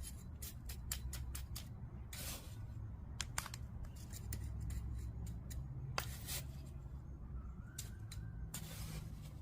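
Cold-patch asphalt being worked into a driveway pothole: gritty scrapes about two, six and nine seconds in, with many small clicks of stones and the tool, over a steady low rumble.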